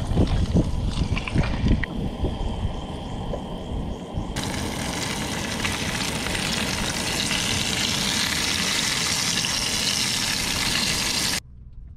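Fish fillets frying in oil in a small pot on a portable camp stove, sizzling with a steady hiss, with clunks of handling the pan and fillets at first. About four seconds in the sizzle turns suddenly louder and fuller, and it cuts off abruptly just before the end.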